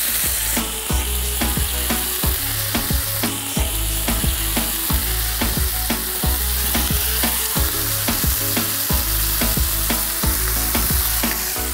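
Chicken and vegetable kebab skewers sizzling as they fry in shallow oil in a pan, with background music carrying a steady beat underneath.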